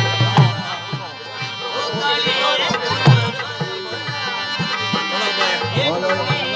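Rajasthani folk song accompaniment: regular hand-drum strokes, tabla-like, under a wavering melodic line.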